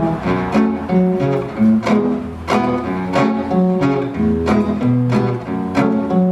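Live band playing an instrumental passage of a cumbia song: held chords over a moving bass line, with a sharp accent about every two-thirds of a second.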